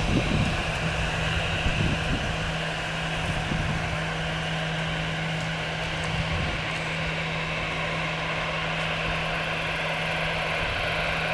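Airbus A320 airliner's jet engines running steadily, a constant hum with a hissing rush over it. Uneven low rumbles come through in the first couple of seconds.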